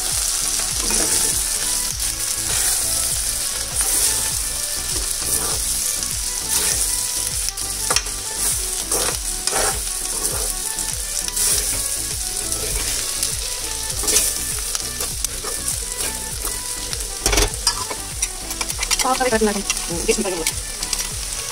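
Sliced ivy gourd (kovakkai) sizzling in oil in a kadai while a steel spoon stirs and tosses it through the spice powder, scraping and clinking against the pan at irregular intervals over a steady sizzle.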